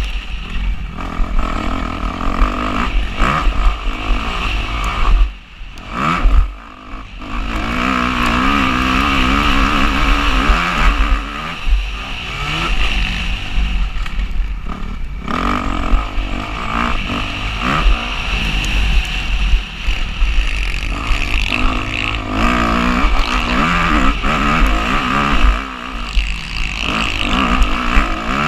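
Motocross dirt bike engine being ridden hard, revving up and down with the throttle, with heavy wind rumble on the microphone. The engine drops off briefly about five to seven seconds in, then picks up again.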